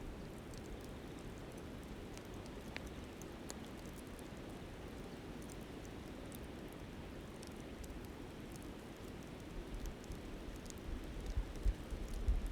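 Campfire crackling, with small scattered pops, over the steady rush of a flowing river.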